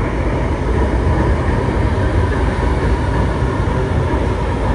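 LRT Line 1 light rail train running, a steady rumble.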